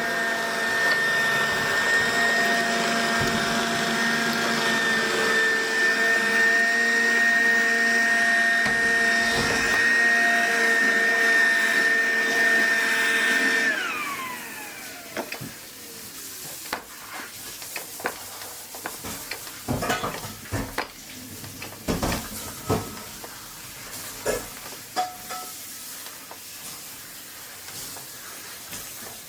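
Robot vacuum cleaner running with a steady whine over a hiss. About halfway through, its motor shuts off and winds down in falling pitch. Scattered light clicks and knocks follow.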